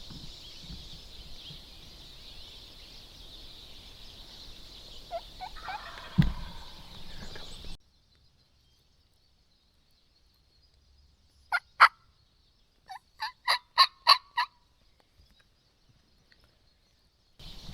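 Turkey calling: two sharp notes, then a quick run of about six evenly spaced notes. Before them a steady high hiss of background, with one dull thud about six seconds in.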